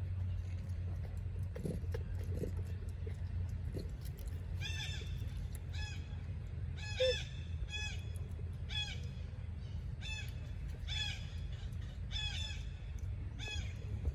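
A series of short, pitched animal calls, about one a second, beginning about five seconds in, over a steady low background hum.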